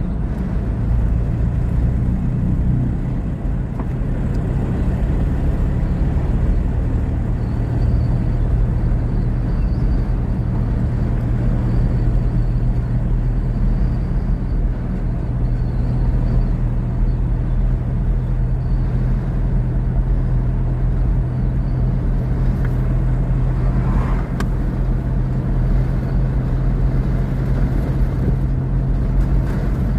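Motor vehicle running steadily, a constant low engine drone over road noise.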